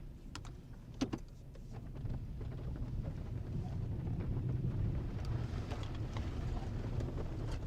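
Four-wheel-drive vehicle engine running while driving through snow, with a sharp knock about a second in. The engine grows louder from about two seconds in, with a hiss of tyres in snow.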